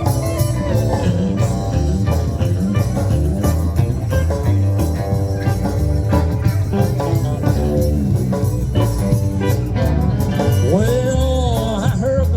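Live country band playing an instrumental break between verses: electric guitar lead over a steady bass line and drums, with bent, gliding notes near the end.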